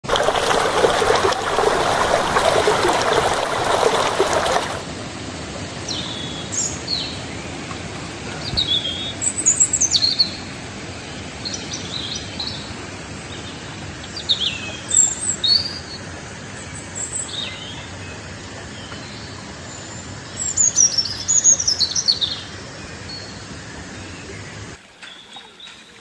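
Several birds chirping and calling in short high notes over a steady background hiss. The first few seconds are louder, a broad rushing noise that cuts off abruptly.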